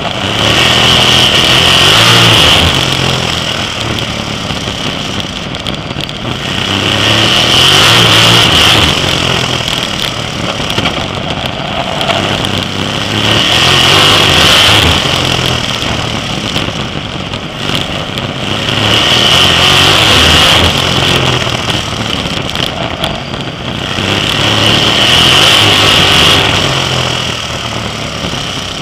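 Sprint car V8 engine running hard at racing speed. It swells louder and fades back about every six seconds, five times, as the car works around the short oval.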